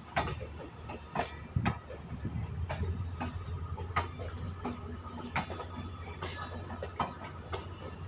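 New Indian Railways passenger coaches built at the Rail Coach Factory rolling past on the rails, with a steady low rumble. Sharp clacks from the wheels come every half second to a second at uneven spacing.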